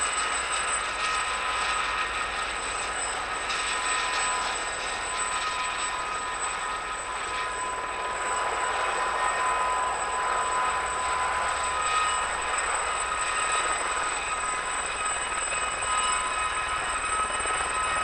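Westland Gazelle helicopters in flight: a steady high-pitched turbine and Fenestron tail-rotor whine over a rushing noise.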